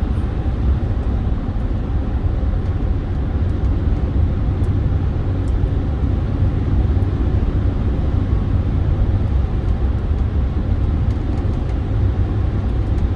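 Steady low road and engine noise inside a Chevy pickup's cab cruising at highway speed, about 75 mph.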